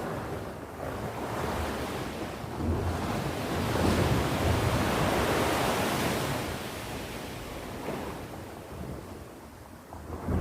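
Sea waves on the shore: a wave swells and breaks about four seconds in, then washes out and fades.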